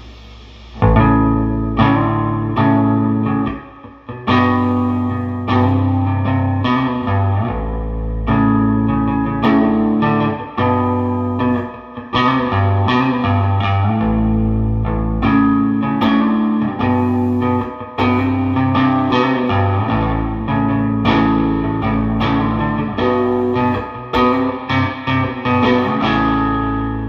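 Electric bass guitar played through a 1973 Fender Quad Reverb combo amp with Weber Legacy speakers, with the amp's reverb turned up. A simple line of plucked notes starts about a second in and lets ring out near the end, giving the normal Fender reverb sound, not too crazy.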